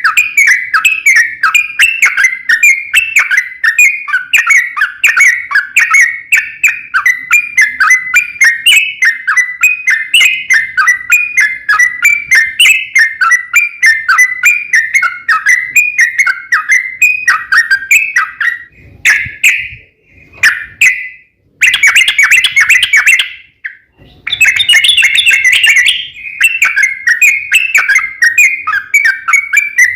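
Yellow-vented bulbul (trucukan) singing a long, unbroken run of rapid bubbly, warbling notes. It pauses briefly twice about two-thirds of the way through, then carries on.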